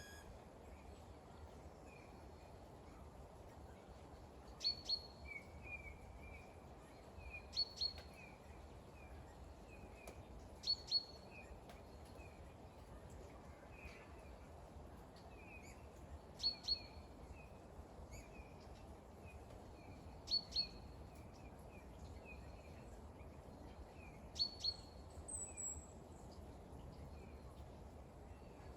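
Small birds calling: a sharp, high double note repeated every three to four seconds, with softer chirps in between. Steady rain hiss runs underneath.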